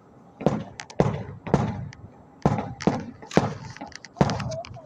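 Aerial fireworks bursting in quick succession, about eight sharp bangs roughly half a second apart, each trailing off in an echo.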